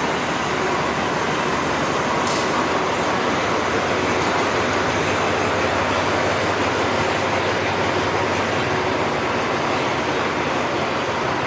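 Passenger train rolling into a station: a steady rumble of wheels and running gear, with one short hiss about two seconds in.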